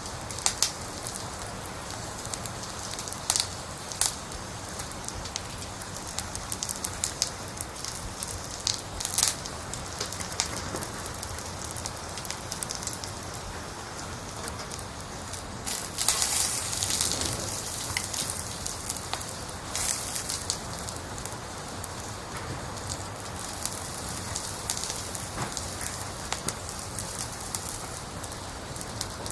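Wood fire in a fireplace crackling: a steady hiss with scattered sharp pops, and a louder stretch of crackling about sixteen seconds in.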